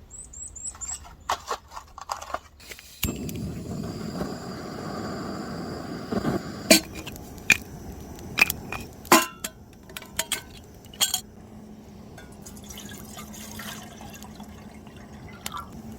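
A handheld butane torch lit about three seconds in and hissing steadily as it is held to the kindling and firewood, with sharp pops and crackles as the wood starts to catch.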